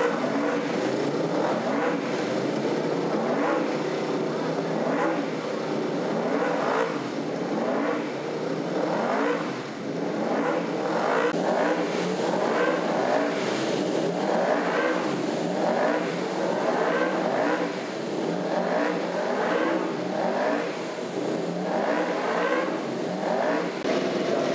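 Racing motorcycle engines revving hard and accelerating, several overlapping, each climbing in pitch in repeated sweeps as they shift up through the gears.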